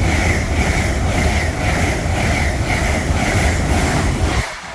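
LNER Azuma Class 801 electric train passing through the station at speed: a loud rushing rumble with a regular beat as the carriages go by, which drops away suddenly about four and a half seconds in as the end of the train passes.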